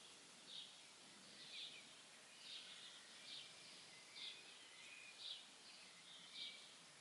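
A songbird repeating a short, high chirp about once a second, faint over a steady background hiss.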